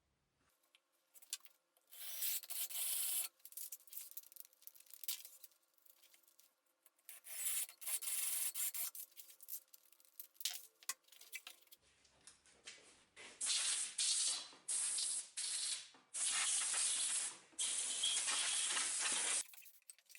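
Sandpaper rubbed by hand over plywood in back-and-forth strokes of one to two seconds each. The strokes come in short runs with pauses between them, and follow one another more closely in the second half.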